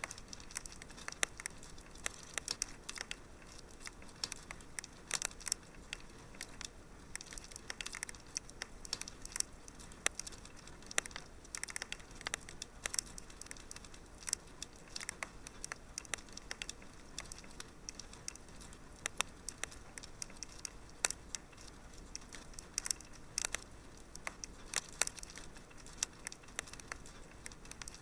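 Wood fire crackling in a fireplace: many sharp, irregular pops and snaps over a soft steady hiss.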